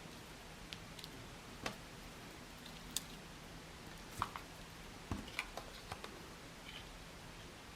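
Scattered small clicks and taps of paper and card-making supplies being handled on a table, a few of them sharper, over a faint steady hum.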